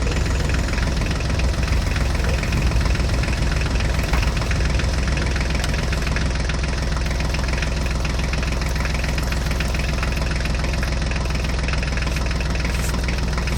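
Tractor engine sound running steadily with a low, even chug, the engine noise of a toy John Deere tractor pulling its loaded trolley.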